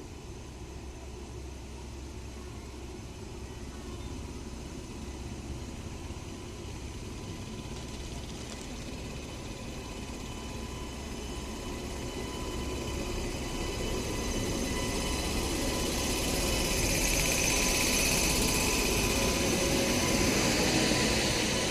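Indian Railways WAP-7 electric locomotive and its train running, a steady rushing noise with a faint whine that grows steadily louder and peaks near the end as it draws near.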